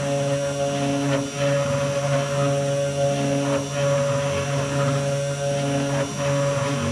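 Low-cost hobby CNC router carving a wooden board: the spindle motor whines steadily while the stepper motors sing in tones that shift every few seconds as the cutter changes direction, with a few faint clicks.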